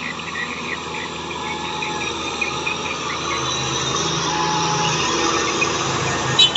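Kubota M6040SU tractor's diesel engine running steadily, growing slowly louder, with insects chirping rapidly over it for the first couple of seconds. A short, sharp double click near the end.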